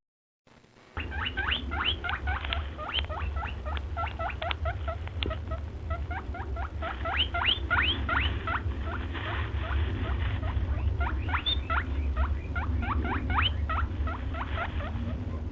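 Many small birds chirping busily, a fast run of short, quickly rising squeaky chirps, several a second, over a steady low rumble.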